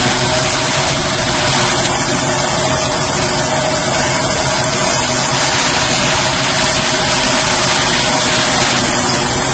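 Tractor diesel engine running at a steady speed, a dense even drone with a constant hum through it.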